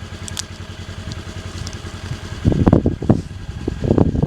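Wind buffeting the microphone: a steady low rumble that swells into irregular louder gusts about halfway through, with a couple of faint clicks near the start.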